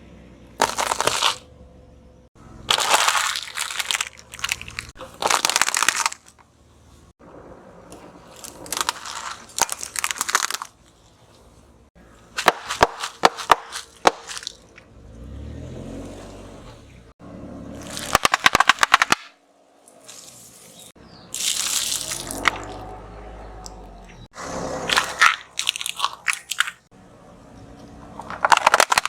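Objects being crushed under a car's tyres: a run of about ten separate crunching and cracking bursts, some made of rapid sharp snaps, with quieter stretches between them.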